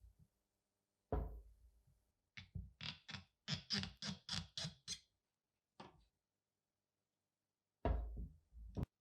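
Knocks and taps from hand work in a pistol restoration: a thud, then a quick run of about ten sharp strokes at roughly four a second, a lone click, and a second thud followed by a click near the end.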